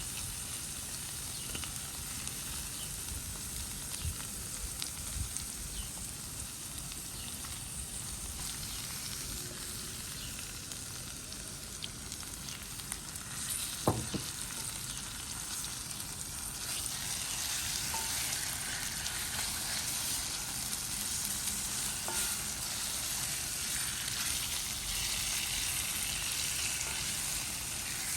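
Food frying in hot oil in a pan, a steady sizzle with a sharp knock about halfway through. The sizzle grows louder and brighter a few seconds later.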